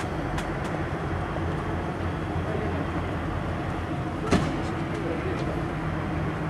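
Steady low rumble and hum from a passenger train at a station platform, with one sharp knock about four seconds in.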